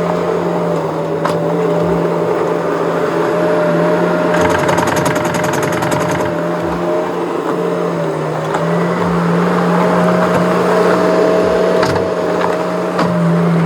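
Skid steer engine running steadily under work, with a brief dip in engine speed about eight seconds in. A rapid rattling clatter sounds for about a second and a half near the middle.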